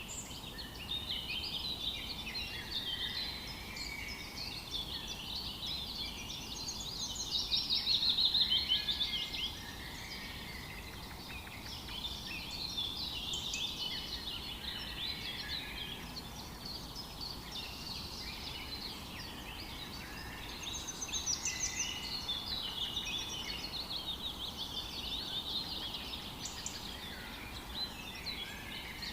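Several wild birds calling and singing at once, a dense chorus of overlapping chirps and trills, loudest about eight seconds in and again around twenty-one seconds.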